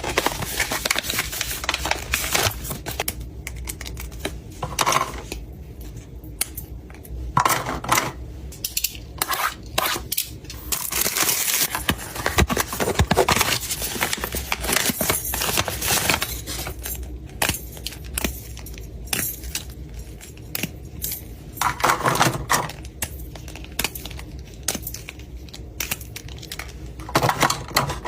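Small hard objects being handled and put away: an irregular run of clicks and clinks with some rustling.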